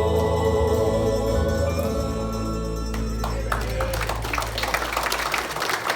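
Gospel vocal quartet and backing music holding a final chord that ends about three seconds in, then a crowd clapping.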